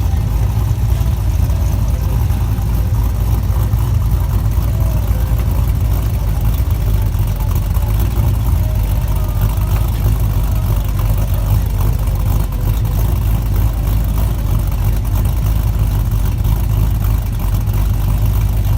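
A Ford Mustang's engine idling steadily, a loud low rumble with no big revs.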